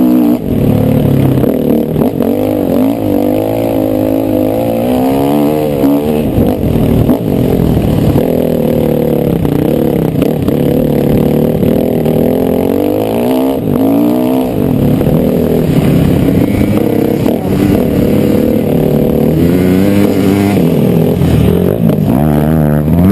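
Motocross bike engine being ridden hard, the revs climbing and dropping again and again.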